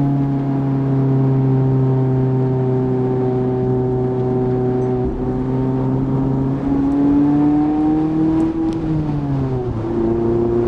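Mazda MX-5's 1.5-litre four-cylinder engine pulling along at a steady, loud note. The pitch climbs slowly past the middle, falls about nine seconds in, then settles at a new steady pitch near the end.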